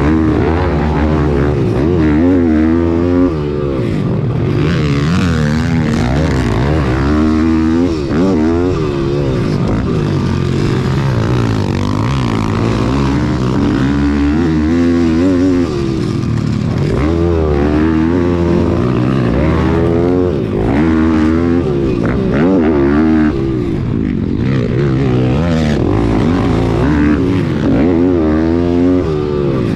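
Pit bike engine revving hard and backing off over and over as it is ridden around a dirt track, its pitch rising and falling every second or two.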